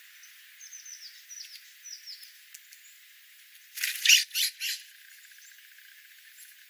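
Small wild birds chirping: a quick run of short, high, falling chirps. About four seconds in come four loud, harsh bursts in quick succession, the loudest sound here.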